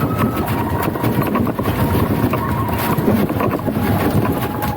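Busy outdoor festival procession noise: a dense, continuous clatter of many short knocks and clicks, with a thin squeal held at a steady pitch that shifts down a little partway through.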